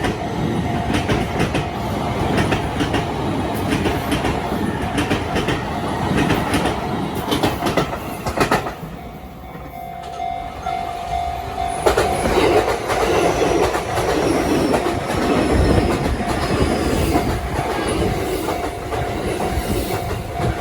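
Sotetsu Main Line trains running over a level crossing, wheels clacking over the rail joints. The noise eases off briefly near the middle, then a train passes again at full loudness from about twelve seconds in.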